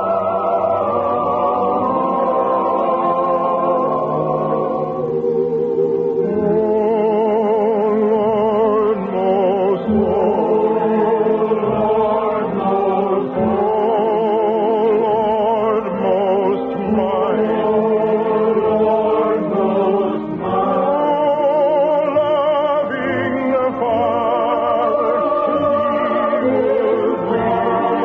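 A choir singing a slow sacred piece, many voices holding notes with a wide vibrato, heard through the narrow, dull sound of an early-1950s radio broadcast recording.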